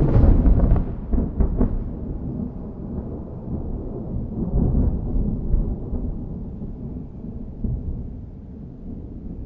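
Thunder: a sudden loud crack with a few sharp crackles in the first two seconds, then a long low rolling rumble that slowly fades.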